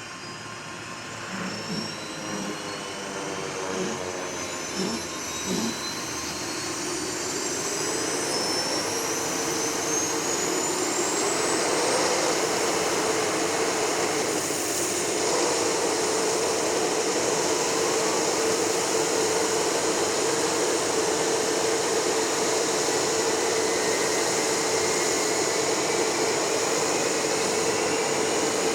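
Northrop F-5E Tiger II's J85 turbojet spooling up during engine start: a whine rises in pitch and grows louder over roughly the first twelve seconds, then holds steady at idle. A few short low pulses sound in the first six seconds.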